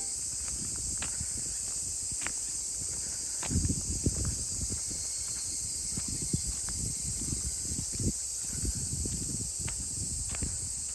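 Steady high-pitched chirring of crickets or other insects, with scattered soft knocks and rustles of something being handled or stepped on close by, busiest about a third of the way in.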